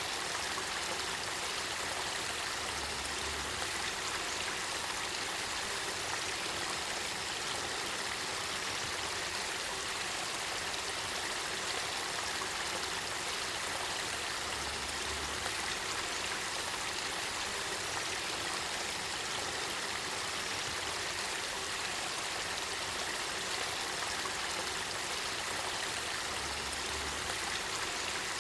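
Clear spring water flowing in a steady, even rush, with no changes.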